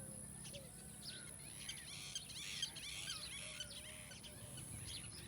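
Several birds chirping and calling together in outdoor ambience, with a dense flurry of quick chirps about halfway through and some lower whistled notes. A steady high-pitched whine sits underneath throughout.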